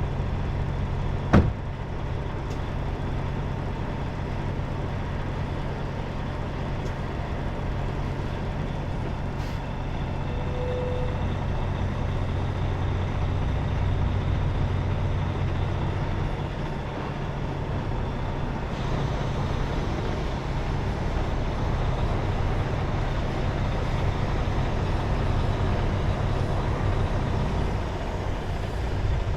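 Semi truck's diesel engine running steadily, with one sharp click about a second and a half in.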